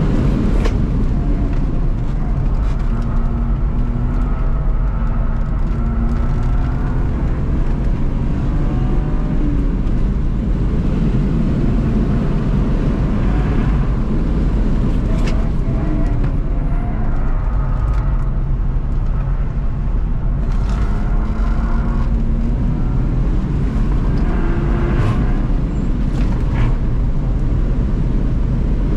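BMW E36 323i's straight-six engine heard from inside the cabin on the move. Its pitch rises and falls repeatedly with the revs over a steady bed of road and wind noise, with a few brief clicks.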